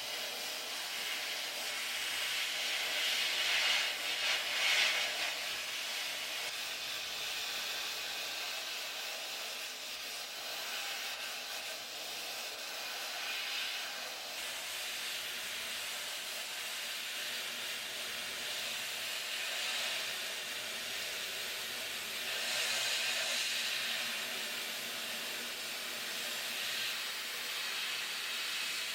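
A steady rushing hiss like blasting air, swelling louder twice, around four seconds in and again near the end.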